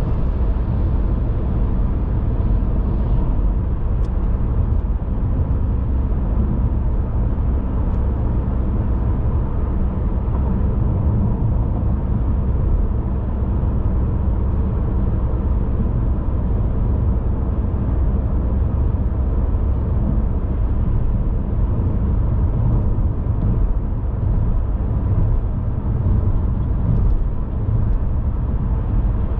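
Steady low rumble of a car driving, road and engine noise without a break.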